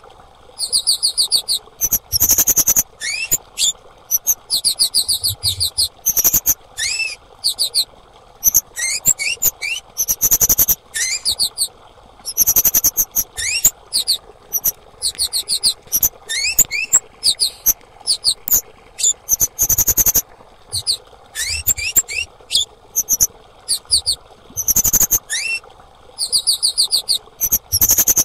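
Female kemade (cit keres) calling: short runs of rapid, very high chirps with quick upward-sliding notes, repeated every second or so with brief gaps, over a faint steady hiss.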